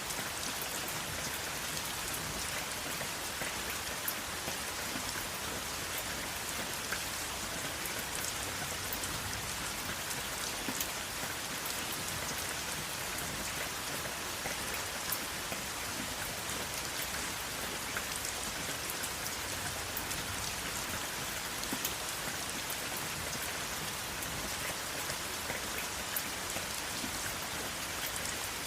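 Steady rain falling, an even hiss dotted with the small ticks of individual drops striking a surface, with no thunder.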